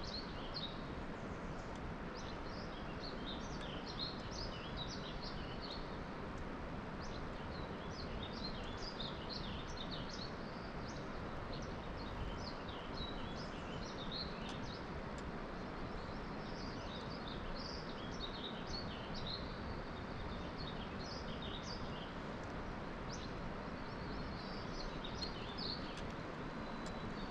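Small birds chirping and singing in quick, repeated short notes over a steady outdoor background hiss.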